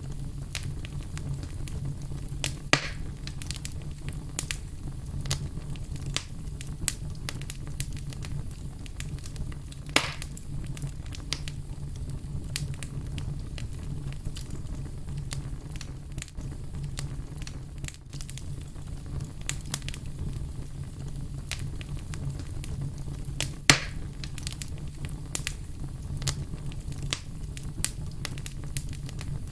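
Wood fire burning with a steady low rumble and frequent sharp crackles, with a few louder pops.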